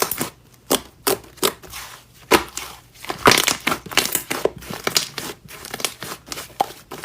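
Slime being pressed and squished by hand, giving irregular crackling pops and crunches several times a second.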